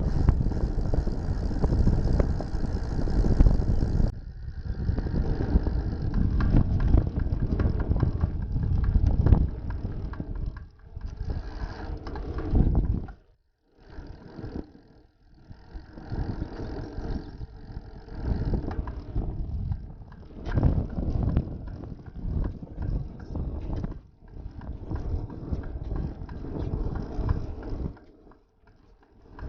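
Wind buffeting and road rumble on a small action camera's microphone during a bicycle ride, gusting up and down and dropping away briefly twice.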